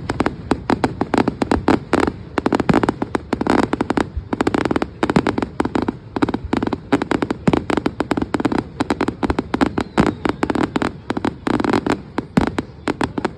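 Fireworks display going off in a rapid, dense volley of bangs and crackles, many per second.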